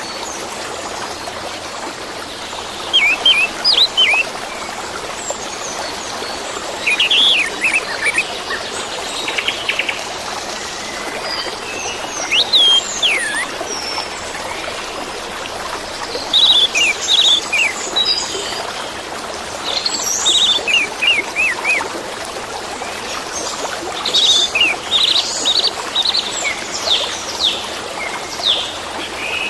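Orange-headed thrush (anis merah) singing in short bursts of quick, sweeping whistled phrases, over steadily running water.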